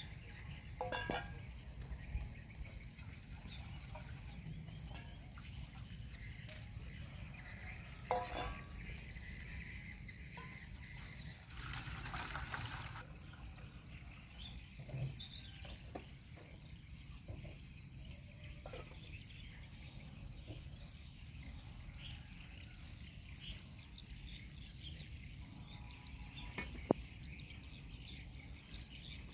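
Outdoor country ambience: insects chirring steadily with occasional bird calls over a low rumble. A few short knocks and a brief hiss about twelve seconds in stand out from the background.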